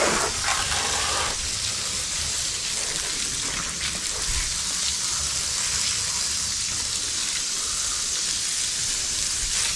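Water spraying steadily onto a dirt bike as it is rinsed, a continuous even hiss.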